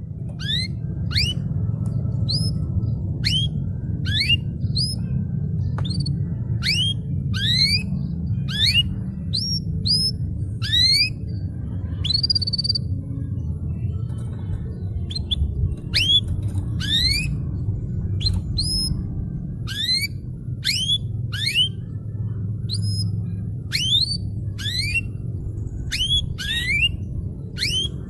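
Domestic canary singing: a long run of short, sharply rising whistled notes, about one or two a second, with a brief pause about halfway through. A steady low rumble runs underneath.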